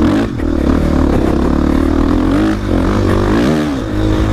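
450 dirt bike engine running under riding load, with its pitch rising and falling twice as the throttle is worked, about two and a half and three and a half seconds in.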